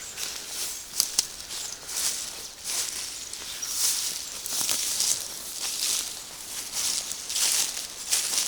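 Footsteps pushing through forest undergrowth, with leaves and stems brushing past in irregular rustling swishes and the odd sharp snap.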